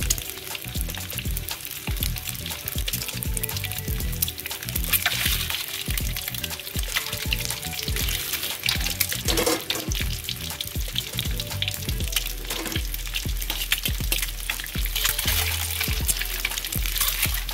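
Boiled eggs frying in hot oil in a steel wok, with a steady sizzle and crackle of spitting oil.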